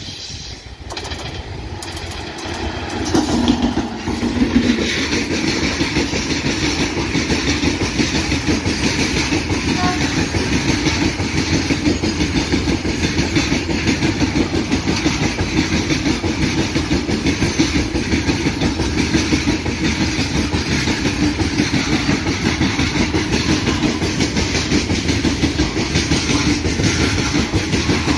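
Loaded freight train hauled by a WAG-9 electric locomotive passing close by, growing louder over the first few seconds. The long line of wagons then rolls past with a steady rumble and continuous wheel clatter over the rail joints.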